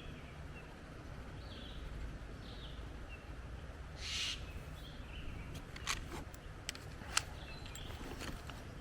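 Wind rumbling on the microphone with a few short, faint bird chirps. About four seconds in comes a brief scratch, followed by a handful of sharp clicks.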